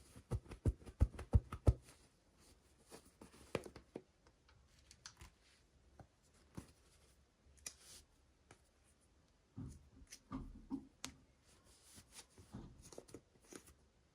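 Small toy parts and packaging being handled: a quick run of sharp clicks and taps in the first two seconds, then scattered clicks with stretches of scraping and rustling.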